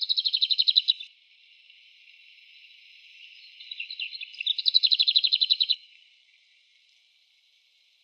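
Bohemian waxwing giving its trilled call, a fast run of short buzzy pulses, twice: once at the start and again about four seconds in.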